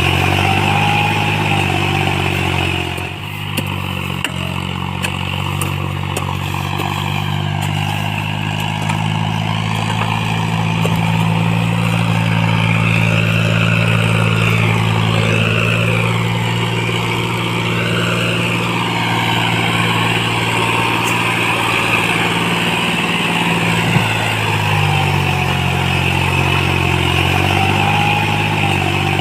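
John Deere 5310 tractor's three-cylinder diesel engine running steadily under load while pulling a sugarcane trolley, its note shifting slightly a few seconds in and again near the end.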